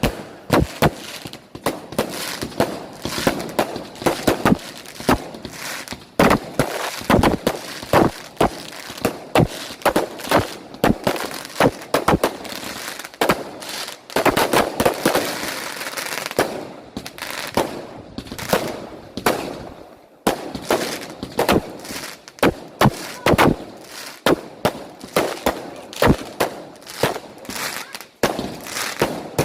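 Fireworks going off: a long, irregular run of sharp bangs in quick succession, with denser stretches of rapid crackling in between.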